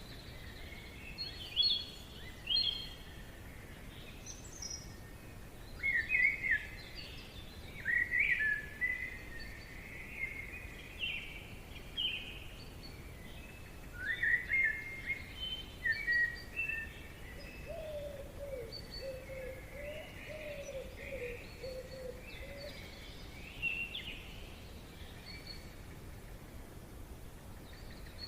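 Forest ambience: several songbirds chirping and singing in short, repeated phrases, with a lower wavering bird call for a few seconds midway, over a faint steady background noise.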